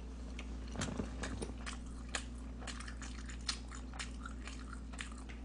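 Close-up mouth sounds of a person chewing food, with many irregular short wet clicks and smacks.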